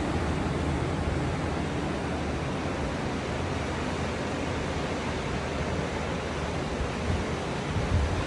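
Ocean surf washing steadily onto the beach, with wind rumbling on the microphone and a few louder gusts near the end.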